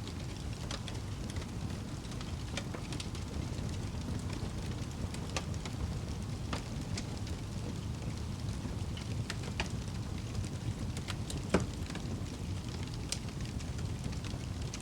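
Wood fire burning in a fireplace: a steady low rumble of flames with scattered sharp crackles, and one louder pop near the end.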